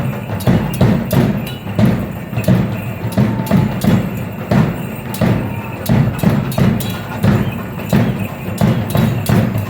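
Percussive danza music: a drum beaten in a steady, driving rhythm, with sharp clicking strikes layered over the beat.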